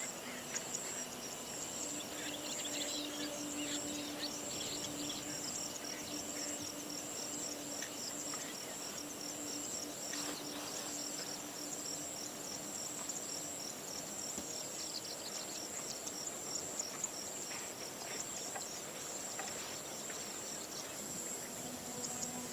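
Steady high-pitched insect chorus, with short scattered calls over it and a low steady hum during the first half.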